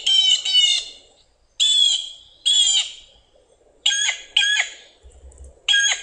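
Blue jay screeching: a string of about seven harsh calls with short gaps between them, some in quick pairs.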